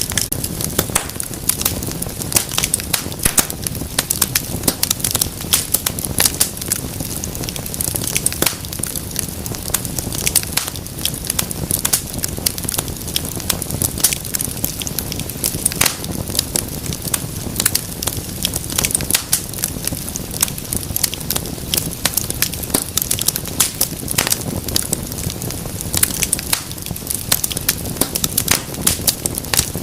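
Wood fire burning in a fireplace, with dense, irregular crackles and pops of the burning logs over a steady low rumble of the flames.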